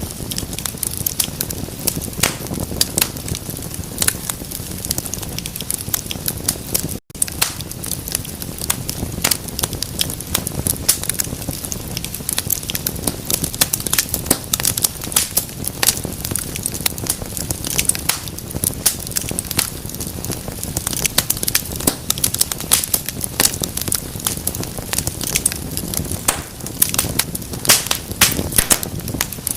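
Fireplace fire crackling, with dense irregular pops and snaps over a low rush of flame. The sound cuts out for an instant about seven seconds in.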